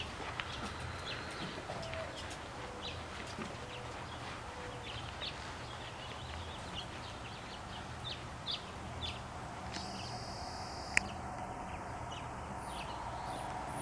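Small birds chirping in short, scattered notes over a steady low background hum. A single sharp click comes about eleven seconds in.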